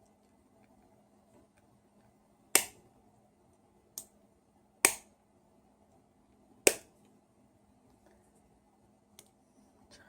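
Sharp snaps from a hand tool working on wire: three loud ones about two seconds apart, with a fainter click between the first two.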